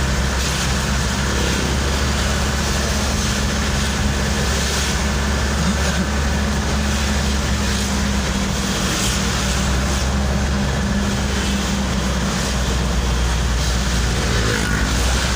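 Steady engine hum and road noise of a vehicle moving through traffic on wet roads in light rain.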